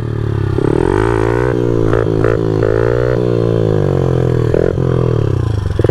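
Pit bike's small single-cylinder engine running under a rider's throttle, its pitch rising and falling several times as he revs and eases off.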